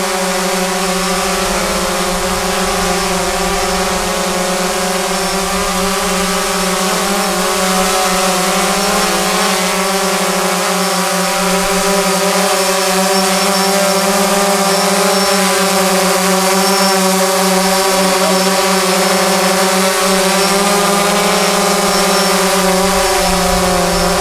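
DJI Phantom 3 quadcopter hovering, its four propellers and motors giving a steady, loud buzzing whine.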